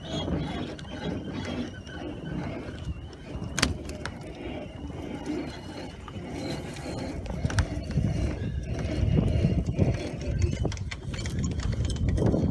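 Pop-up camper's hand crank being wound to raise the roof, the crank mechanism squeaking in a thin high tone with scattered sharp clicks.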